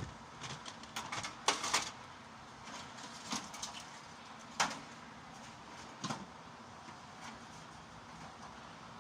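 Metal fluorescent light fixture housings being handled and sorted: irregular knocks and clatters, the loudest about one and a half seconds and four and a half seconds in.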